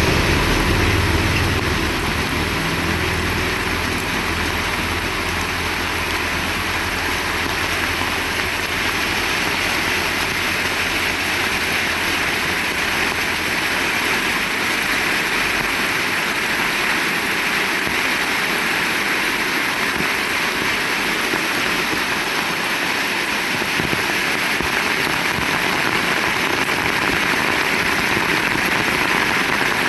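Heavy rain falling steadily in a dense, even hiss. A low engine-like hum sits under it in the first half and fades out around midway.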